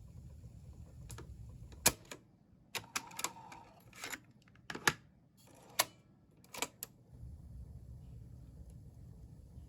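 Irregular sharp clicks and knocks of small hard parts being handled, about ten of them over some five seconds, starting about two seconds in.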